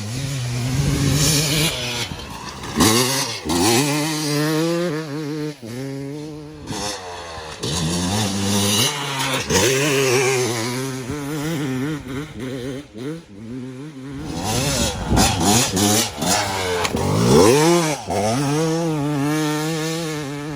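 Yamaha YZ250 two-stroke dirt bike running hard around a motocross track, its engine pitch repeatedly climbing as the throttle is opened and dropping as it is shut off or shifted.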